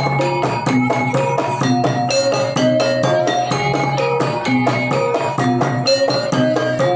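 Javanese gamelan music accompanying a jaranan (horse-dance) performance: quick, even strokes on bronze metallophones over drumming, with a steady low hum beneath.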